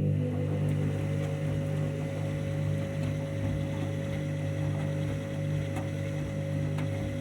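Washing machine running through its wash programme: a steady motor hum that holds level throughout.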